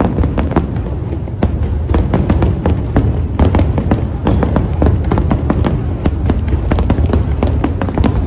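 Aerial fireworks bursting in rapid succession: many sharp bangs and crackles crowding over one another above a continuous low rumble.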